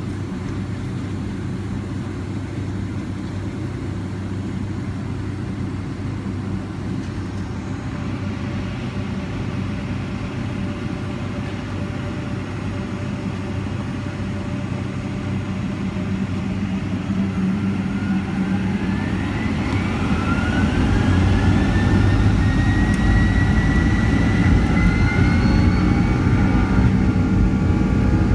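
Boeing 757-200 jet engines heard from inside the cabin: a steady low rumble at first, then a rising whine as the engines spool up to takeoff thrust, growing louder and heavier over the last third as the takeoff roll begins.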